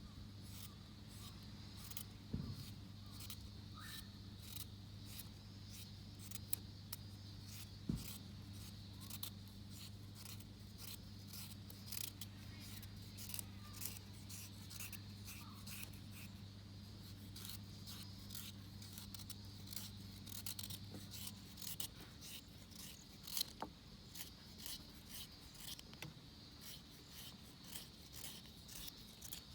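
Wood fire crackling in a Picogrill, with many irregular sharp snaps and pops. A steady low hum runs underneath and stops about two-thirds of the way through.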